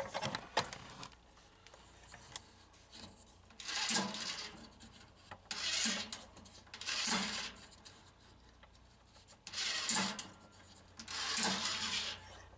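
Freshly regreased vending-machine gearbox and rotor drive being turned back and forth by hand: about five short bursts of rubbing, whirring mechanical noise, each lasting a second or so.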